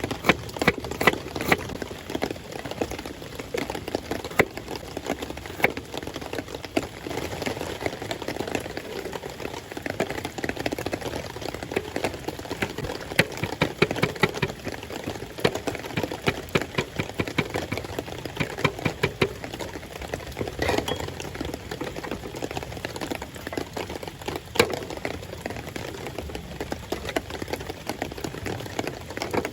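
Rain falling steadily, with many irregular sharp drop taps over a constant wash of rain.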